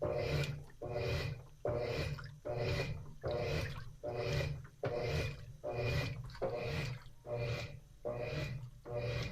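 Washing machine in its wash phase, churning water and clothes in a steady rhythm of short swishing strokes, about two a second.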